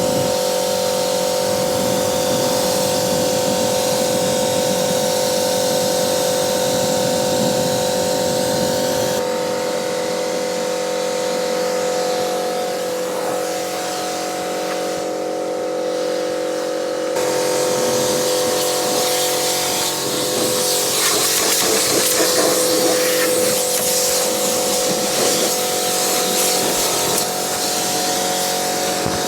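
Pressure washer running with a steady whine and the hiss of its water spray, which turns rougher and louder in the last third.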